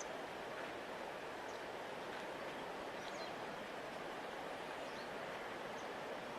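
A wide river flowing, giving an even, steady rushing noise. A few faint, short high chirps sound over it.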